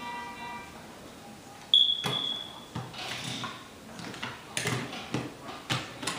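Toy train set: a sudden high-pitched beep about two seconds in, lasting about a second, followed by scattered clicks and knocks.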